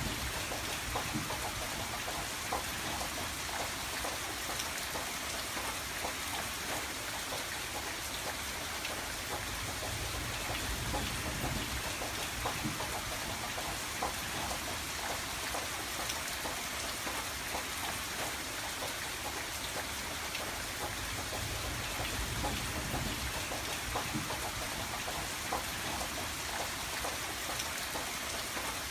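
Steady rain pattering on a window, with many small drop ticks scattered over a constant hiss.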